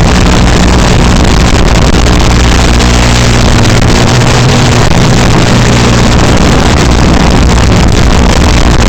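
Small FPV quadcopter's brushless motors and two-blade propellers buzzing continuously, the pitch shifting as the throttle changes partway through.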